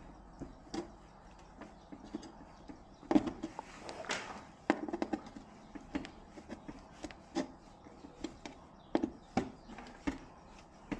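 Irregular clicks and light knocks of tools and parts being handled during a TV repair, with a few louder knocks about three, four and a half, nine and ten seconds in.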